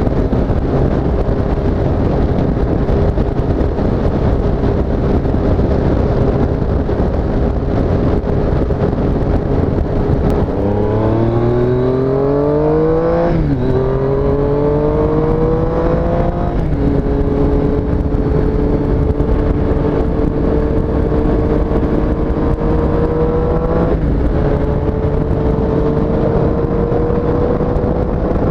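2017 Triumph Street Triple S's 765 cc three-cylinder engine holding a steady cruise, then accelerating from about ten seconds in, its note climbing and dropping back at upshifts about three, six and thirteen seconds later. Heavy wind noise over the microphone throughout.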